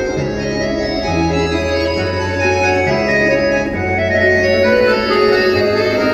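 Dance music played on an organ-like keyboard: sustained chords over a bass line that steps to a new note about once a second.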